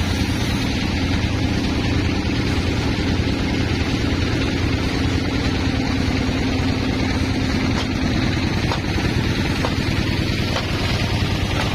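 Sawmill machinery engine running steadily at a constant pitch, with a few faint clicks in the second half.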